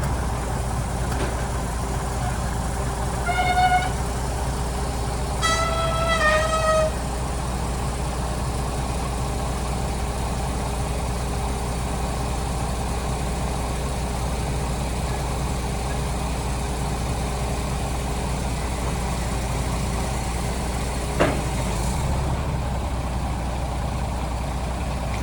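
Scania 94G 300 truck's diesel engine running steadily. A few seconds in, two brief pitched tones sound, the second longer and dipping slightly in pitch; a single sharp click comes near the end.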